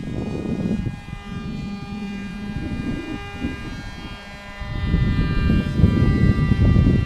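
Small RC foam plane's motor and propeller whining steadily in flight, with a low rushing noise underneath that grows louder about two-thirds of the way through.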